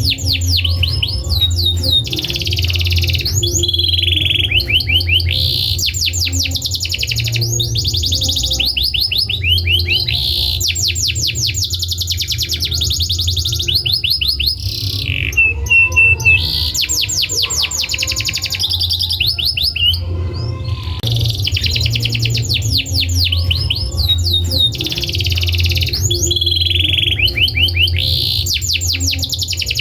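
Domestic canary singing: long runs of very rapid, high trills and rolls broken by short pauses, over a steady low hum.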